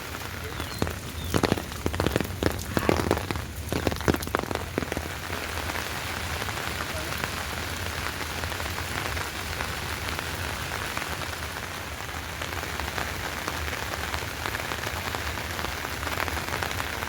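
Heavy rain falling steadily. In the first few seconds there is a cluster of louder, sharp taps.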